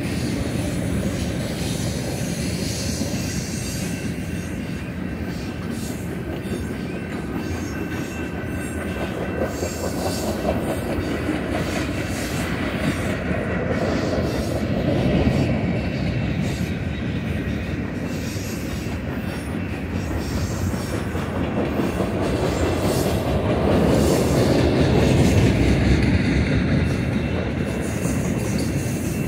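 Loaded freight cars of a long train rolling past on steel rails: a steady rumble and clatter of wheels on track with a faint high whine over it, growing louder around the middle and again near the end.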